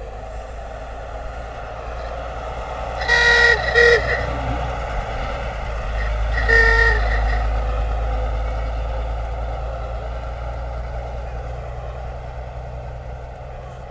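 A car horn honks three times, two short toots close together and then one more, over the steady rumble of a vehicle that grows louder and then fades away.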